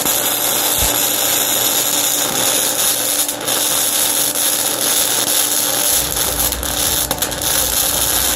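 Flux-core wire-feed welding arc from a modified 120-volt Harbor Freight welder, running on thick mild steel plate: a continuous loud, even crackling sizzle with small pops throughout.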